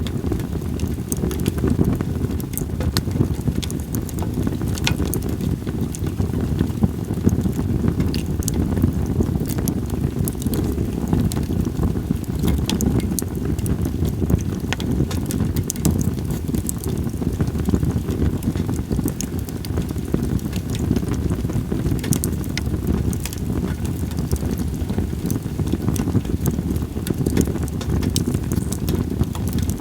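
Split sawtooth oak (kunugi) logs burning in a campfire, crackling with frequent sharp pops, over a steady low rumble of wind on the microphone.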